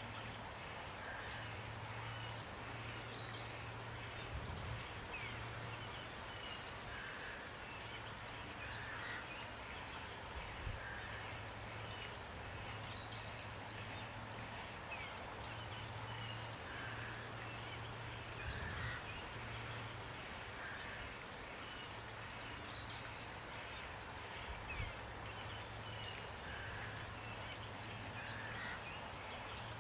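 Steady hiss of rain with small birds singing throughout in short high chirps and trills. A low hum comes and goes underneath.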